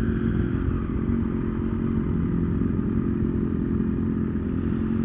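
Triumph Daytona 675 inline three-cylinder engine running at a steady cruise, its pitch holding level, with wind rumble on the microphone underneath.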